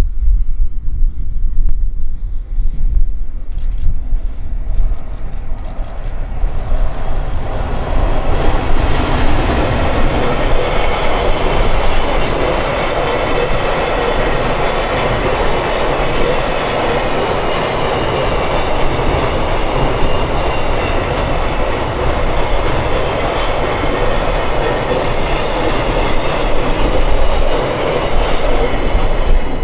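A train approaching and running past on the main line. Its noise builds over the first several seconds and then stays loud and steady for the rest.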